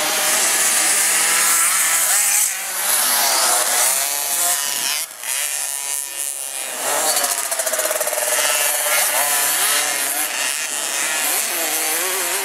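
Several 50 cc two-stroke motocross bikes revving hard, their engine pitches rising and falling as they accelerate and shift, with a brief drop about five seconds in.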